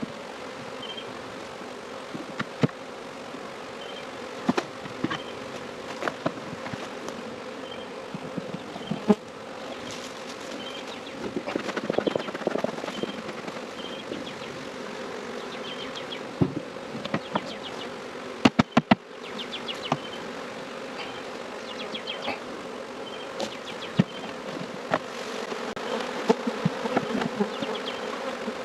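Honeybees buzzing in a steady drone, with sharp clicks and knocks scattered throughout, including a quick run of several about two-thirds of the way through.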